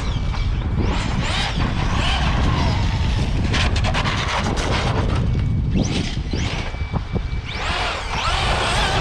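Brushless electric motors of hobby RC cars whining up and down in pitch as the cars accelerate and slow, over a steady low rumble, with a quick run of clicks about halfway through.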